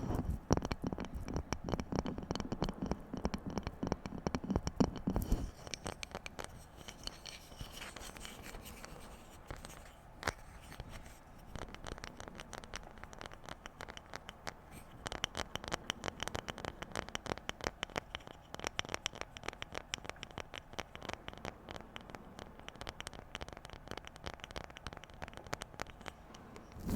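ASMR tapping and scratching on objects: a dense, fast run of light taps. The taps are fuller and heavier for the first five seconds or so, then lighter and quicker.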